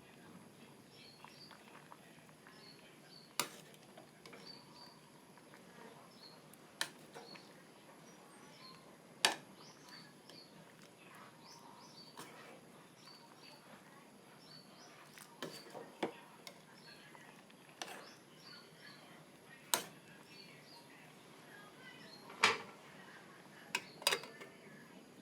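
Small birds chirping faintly over a quiet background, with a sharp click or knock every few seconds.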